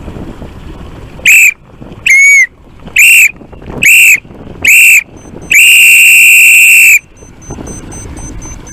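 Whistle sounding a sailing race start countdown: five short blasts about a second apart, then one long blast of about a second and a half marking the start.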